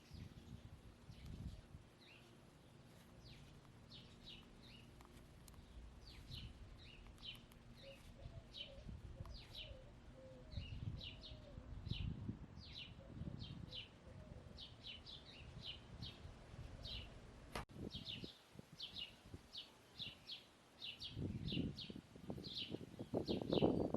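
A wild songbird chirping over and over in short, quick, downward-sliding chirps, several a second. A hen's soft wavering warble comes in briefly about eight seconds in, and low rumbling noise swells near the end.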